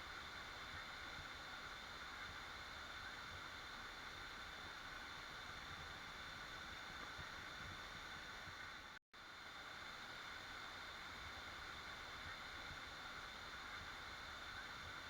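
Waterfall rushing steadily. The sound cuts out completely for a split second about nine seconds in, then resumes.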